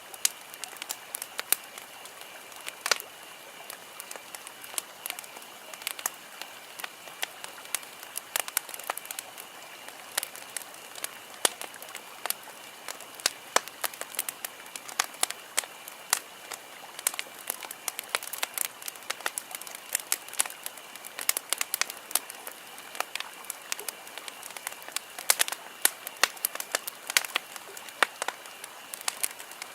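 Wood campfire crackling: many sharp, irregular pops and snaps over a steady hiss.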